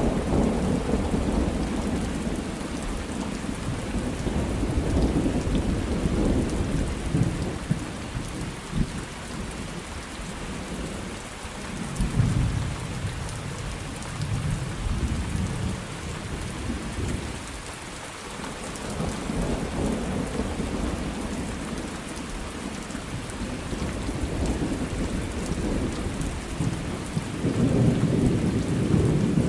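Steady heavy rain with rolling thunder: low rumbles swell and fade several times, strongest at the start, about twelve seconds in, and again near the end.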